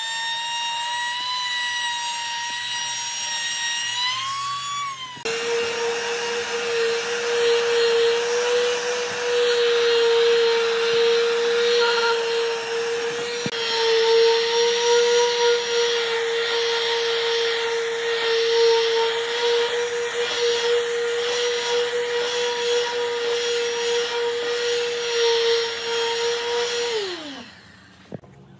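An electric power tool's motor runs with a steady high whine. About five seconds in, the sound switches abruptly to a lower-pitched motor whine with a rasping noise of the tool working the wood. Near the end the motor winds down in pitch as it is switched off.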